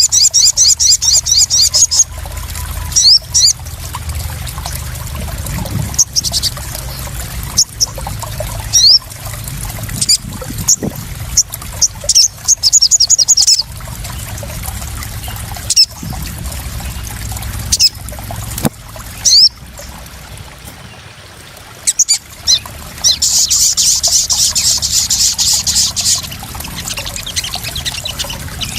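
Crimson sunbird (sogon) calling: bursts of rapid, very high trills, three of them long, with single sharp chips in between. Steady trickling and splashing water runs underneath.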